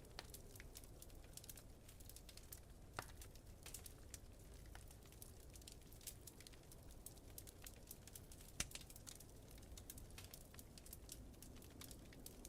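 Wood fire crackling in a fireplace: a steady scatter of small pops and snaps, with two sharper pops about three seconds in and a little past halfway, over a faint low rumble.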